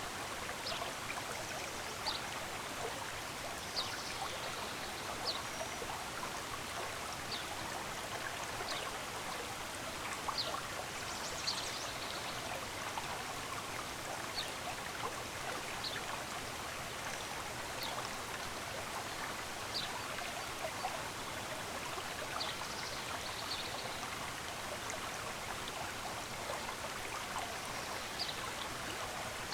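Running water from a stream, steady throughout, with short high bird chirps every second or two.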